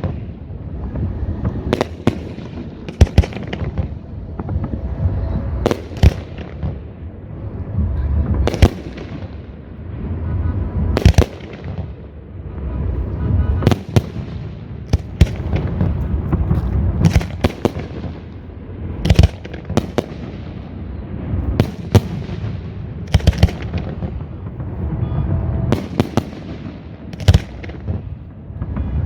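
Fireworks show: sharp aerial shell bursts, one every second or two, over a continuous low rumble between them.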